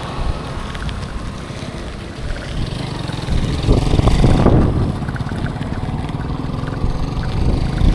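Road traffic noise: a low, steady engine and road rumble that swells louder for a second or so about halfway through.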